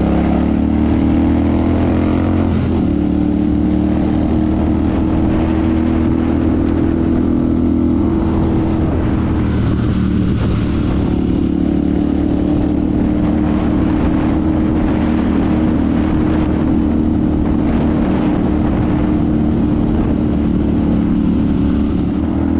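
Royal Enfield Super Meteor 650's 648 cc parallel-twin engine and exhaust under way. The engine pulls up through the revs at the start, the pitch changes about two and a half seconds in, and it then runs fairly steadily at a cruising speed.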